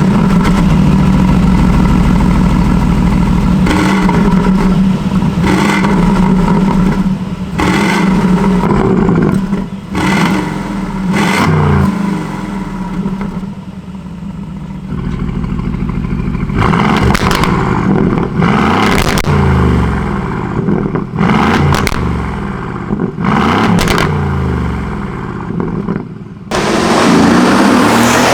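Aston Martin Vantage's 4.0-litre twin-turbo Mercedes-AMG V8 through a straight-piped Quicksilver exhaust: it runs at a steady high idle for a few seconds, then is blipped over and over, each rev falling back with sharp cracks. After a short dip near the end it comes in louder and fuller.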